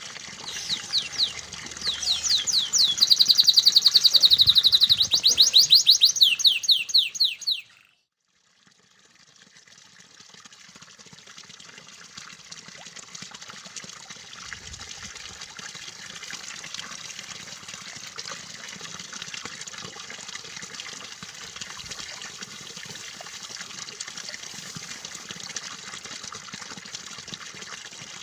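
Canary singing fast trills of rapidly repeated falling notes, cutting off abruptly about eight seconds in. After a brief silence, steady running water fills the rest.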